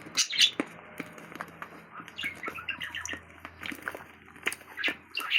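Birds chirping in short, quick calls. Scattered small clicks and squelches come through as well, from sticky slime being kneaded by hand.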